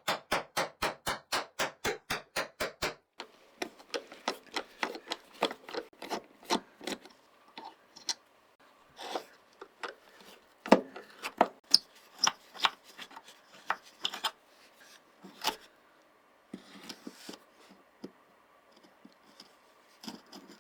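Hand rubbing or scraping strokes on a workpiece: quick and even, about four a second, for the first three seconds, then slower and irregular with short pauses.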